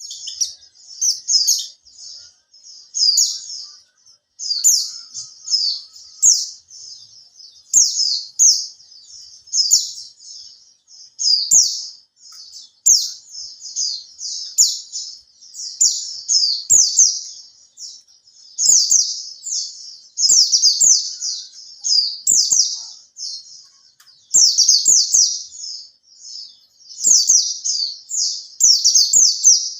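White-eye (pleci) singing: rapid, high twittering phrases about a second long, repeated again and again with short pauses between them, with faint soft taps here and there.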